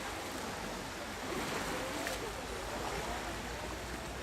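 Steady rush of water, with voices faint in the background.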